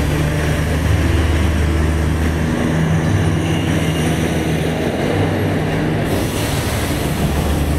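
Darjeeling Himalayan Railway narrow-gauge toy train passing close alongside, its locomotive running with a steady low hum as the coaches roll by.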